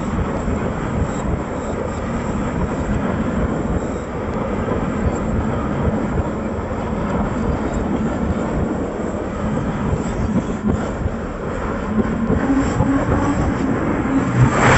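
Passenger train coaches running past close by, with the steady noise of wheels on the rails throughout. There is a brief louder peak near the end.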